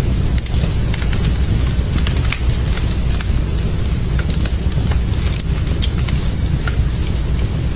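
Wood fire burning in a fireplace: a steady low rumble with many small, irregular crackles and pops from the burning wood.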